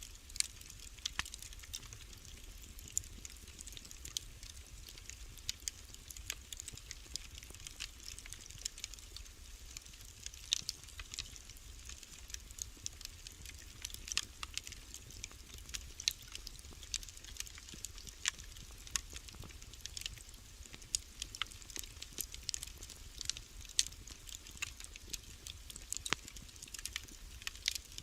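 Wood fire in a fireplace crackling: irregular sharp pops and snaps several times a second, over a low steady rumble.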